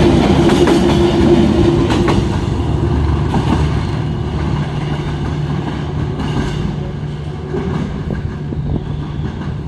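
Passenger train running on the rails, with rumble and clicks from the rail joints. A steady tone sounds over it for the first two seconds, and the train grows gradually quieter through the rest.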